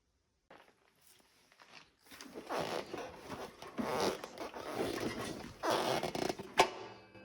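Close rustling and scraping in uneven strokes, ending in a sharp click near the end.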